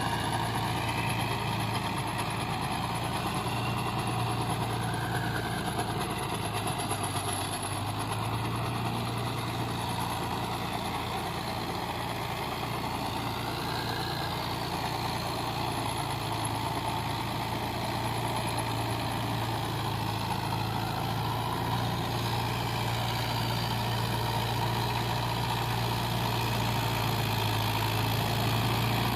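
Mahindra tractor's diesel engine running steadily while plowing, with a brief dip in engine note about seven seconds in and growing a little louder near the end.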